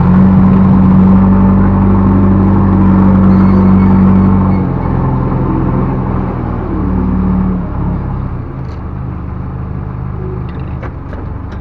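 Backhoe loader's diesel engine running at high revs, dropping back about four and a half seconds in, rising briefly again, then settling to a lower, steadier speed.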